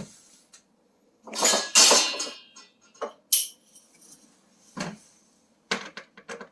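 Metallic clinks and clatter from handling screws and the stove's sheet-metal panel, with a louder scraping rattle from about one and a half to two and a half seconds in, then a few separate clicks.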